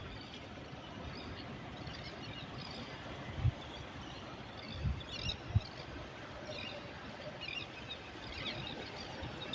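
Sea surf's steady wash with small birds chirping and twittering on and off, and a few short low thumps a little past the middle.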